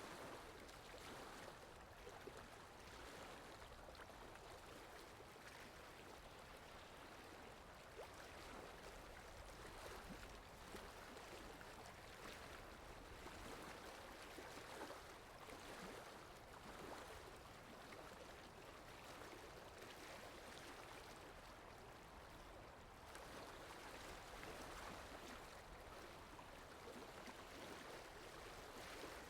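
Faint, steady rushing of water from a rain ambience recording, an even hiss with no music audible.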